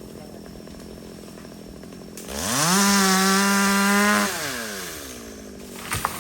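Chainsaw revved once from idle: the engine speeds up about two seconds in, holds at full throttle for about a second and a half, then falls back to idle. A couple of short knocks come near the end.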